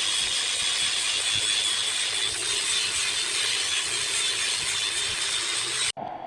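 Steady hissing rasp of a tool or abrasive working a spinning wood-and-epoxy bowl on a wood lathe, with a faint high whine from the running lathe, cut off abruptly about six seconds in.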